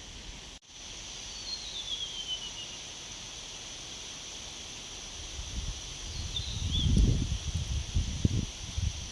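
Wind gusting against the microphone, low rumbling buffets that build in the second half and peak near the end, over a steady outdoor hiss. A bird gives a falling whistled call early on and a short chirp in the middle.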